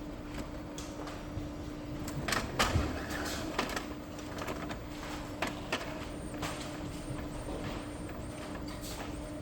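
Epson L3256 inkjet printer printing a high-quality test page: a steady motor hum as the printhead carriage moves back and forth, with scattered clicks and knocks from the mechanism.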